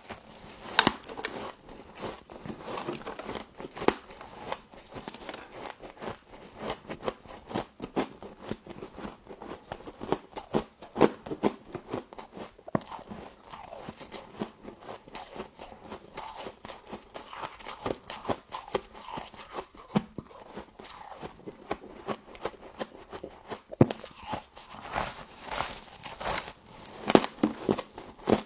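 Frost being bitten and chewed up close: continuous irregular crunching and crackling, with louder bites every second or so.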